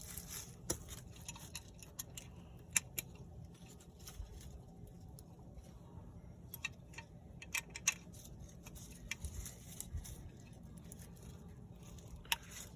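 Scattered light metallic clicks and clinks as drum brake shoes, spring and adjuster are handled and fitted together, a dozen or so spread out at irregular times over a low steady rumble.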